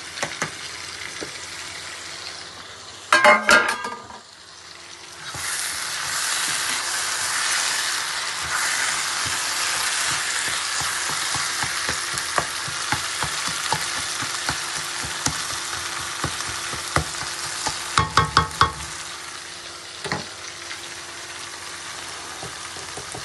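Food frying in a pan, with a sizzle that gets much louder about five seconds in and then holds steady, while it is stirred. A metal spoon clanks against the pan a few times, about three seconds in and again near eighteen seconds.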